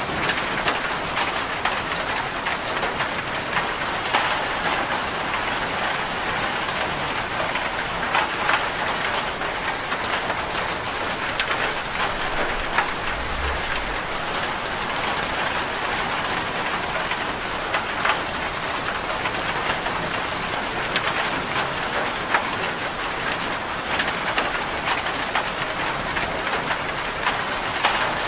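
Steady rain falling, an even hiss with many short sharp taps scattered through it.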